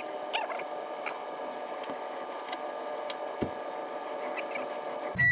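Microwave oven running with a steady hum while heating a load of glow sticks, with a brief low thud about three and a half seconds in. Right at the end its loud end-of-cycle beep starts.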